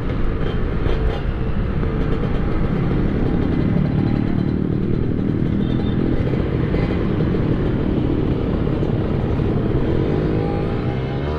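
Kawasaki Ninja R two-stroke motorcycle engine running steadily while riding, with wind and road noise over it.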